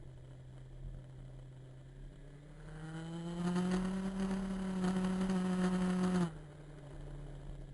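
Motorcycle engine revving up: its note climbs, holds high for about three seconds, then stops suddenly. A lower steady engine hum runs underneath throughout.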